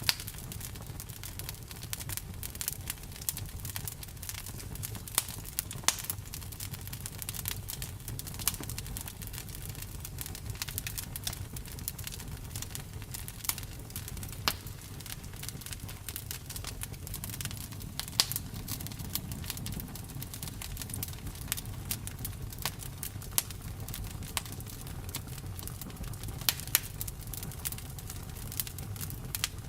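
Campfire burning: wood crackling and popping in irregular sharp snaps over a low steady rumble of the flames.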